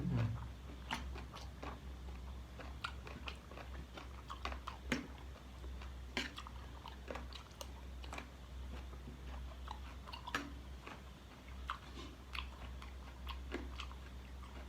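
A person chewing and gnawing on chicken feet in a spicy salad close to the microphone: irregular wet clicks and crunches of mouth and cartilage, over a steady low hum.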